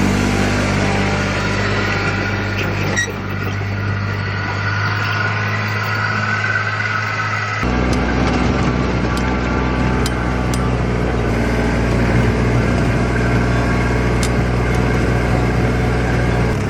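A vehicle engine running steadily with a low hum. About seven and a half seconds in, the sound changes abruptly to a different low, steady pitch, and a few faint clicks sit on top.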